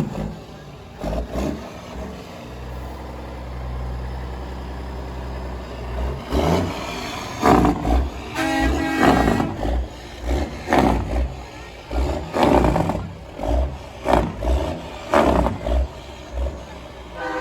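Kenworth semi trucks' diesel engines passing in a parade: a steady low engine hum, then a series of loud, uneven surges about once a second.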